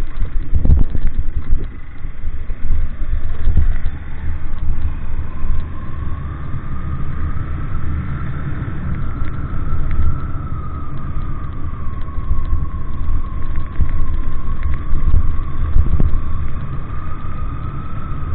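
A motor vehicle running with a heavy, steady low rumble, scattered knocks and a faint whine that slowly rises and falls in pitch.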